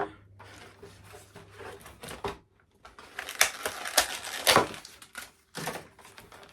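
Plastic toy packaging being handled and pulled apart: a run of crinkling and rapid clicks, growing busier about three seconds in, with several sharp snaps in the second half.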